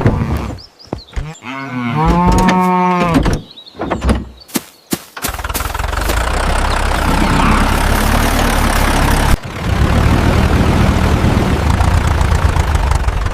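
A cow mooing in a long, wavering call, then a few clicks and a tractor engine starting up and running steadily, with a brief break partway through.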